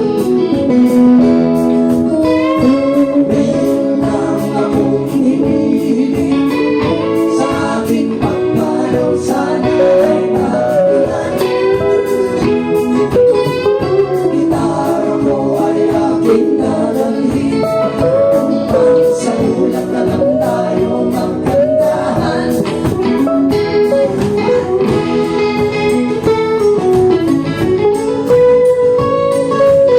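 A folk band playing with guitars, a melodic lead line over sustained chords, and a steady beat.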